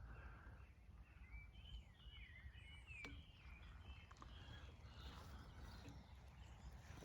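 Faint birdsong, a few short chirping phrases in the first half, over low outdoor background rumble.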